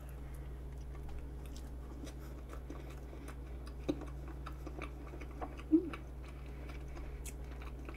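Soft chewing and small mouth clicks as a mouthful of vanilla pound cake with whipped cream is eaten, over a steady low hum. Two slightly louder short mouth sounds come about four and six seconds in.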